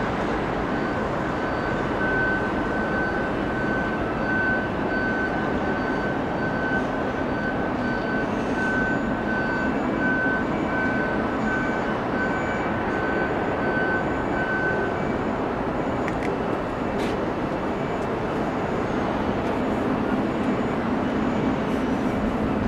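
Jet airliner engines running: a steady rush with a high whine that fades out about fifteen seconds in.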